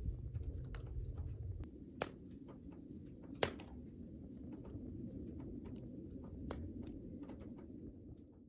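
Wood fire crackling and popping in a Uniflame Fire Grill fire pit, irregular sharp pops over a steady low rumble; the loudest pop comes about three and a half seconds in.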